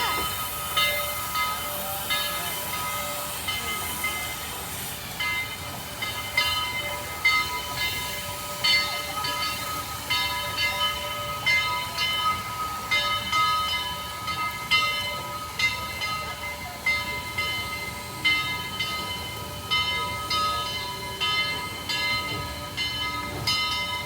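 A railway locomotive standing and running, with a steady whine and hiss broken by frequent short, irregular puffs.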